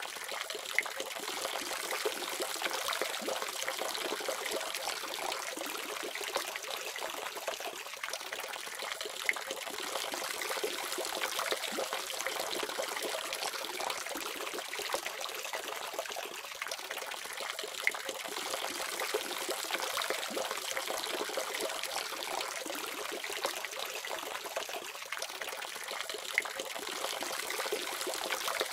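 Water running steadily from a tap and splashing, with an occasional sharper droplet tick.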